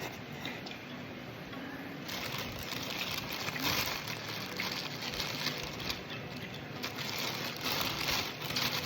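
Close-miked eating noises: chewing and crinkling, with faint talk in the background.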